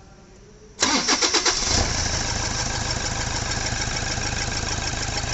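Old-model Toyota Fortuner diesel engine cranked by the starter for about a second, then catching and settling into a steady, even idle. The misfire and knocking are gone now that the broken wire to the number three injector has been repaired.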